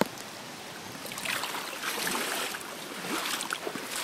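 Shallow floodwater sloshing and splashing in several uneven surges, as of someone wading through it, starting about a second in after a single click.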